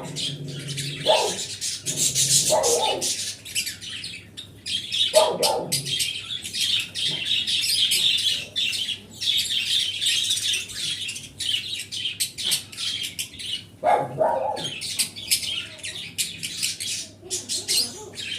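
A flock of small pet birds chirping and twittering continuously, with a few short, harsher, lower calls that drop in pitch breaking through now and then.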